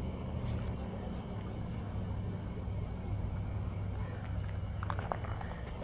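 Night insects, crickets or katydids, calling in a steady high unbroken trill over a low background hum, with a few faint clicks near the end.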